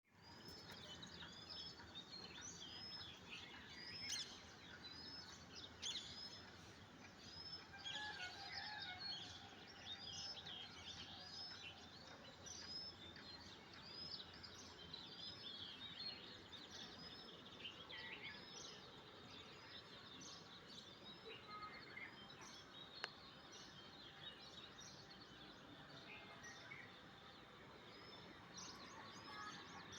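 Several birds chirping and singing in a morning chorus, short arched notes repeating many times over, faint above a steady low outdoor background noise.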